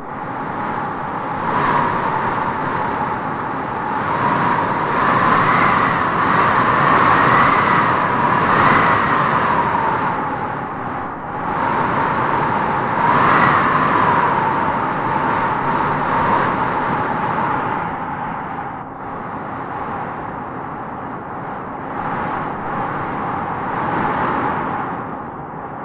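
Wind howling in gusts: a whistling tone over a steady rush, rising in pitch as each gust swells and sinking as it eases. The strongest gusts come about five to nine seconds in and again around thirteen seconds.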